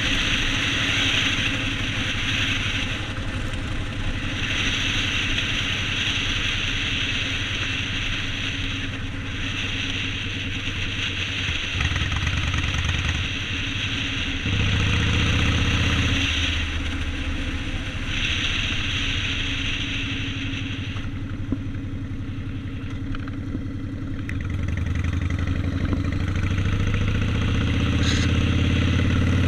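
Yamaha Road Star 1600 V-twin engine running under way, with wind rushing over the microphone that fades and returns. The engine note rises near the end as the bike accelerates.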